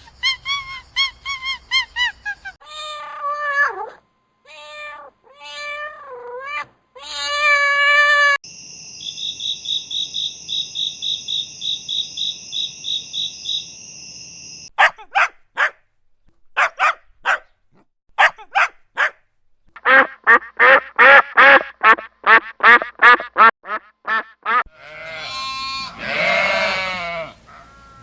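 A string of different animal calls, changing abruptly every few seconds: runs of short repeated calls, a steady pulsing buzz in the middle, and a long loud cry near the end.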